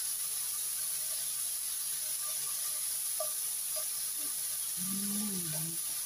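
Meat slices and garlic frying in a nonstick pan: a steady sizzle, with the fork turning the pieces now and then. A brief wavering tone sounds about five seconds in.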